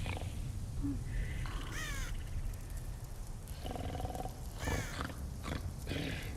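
A few short animal-like vocal calls and grunts, some with a curving pitch, over a steady low rumble.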